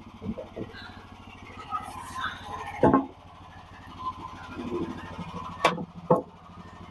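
Small gasoline engine idling steadily under several sharp knocks, the loudest about three seconds in and two more close together near the end.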